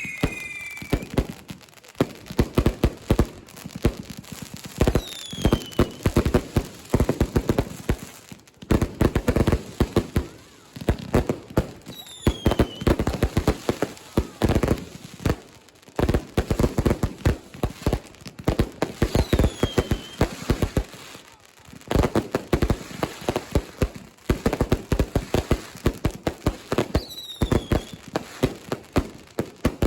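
Fireworks and firecrackers going off in dense volleys of rapid sharp bangs. Each volley opens with a short falling whistle, and the volleys come about every seven seconds.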